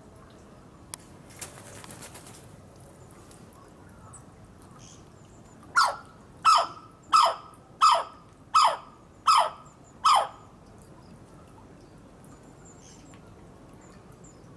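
Laughing kookaburra calling: a run of seven loud, evenly spaced notes, each falling sharply in pitch, about two-thirds of a second apart, beginning a little before the middle. A short rustle comes about a second in.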